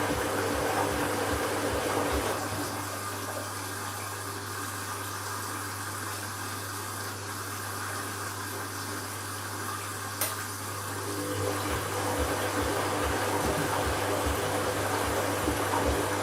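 Candy washing machine running an empty bleaching cycle: water moving in the machine over a steady low motor hum with a regular pulse. The motor tones drop away about two seconds in and return near the end, with a single click about ten seconds in.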